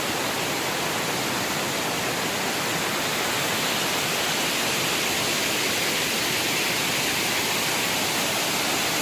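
Waterfall: falling water rushing as a steady, even hiss, with no breaks or separate splashes.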